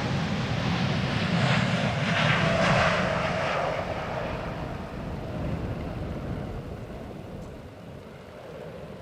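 Jet airliner passing close by, its engine noise swelling to a peak two to three seconds in, with a whine that falls in pitch as it goes past, then fading away.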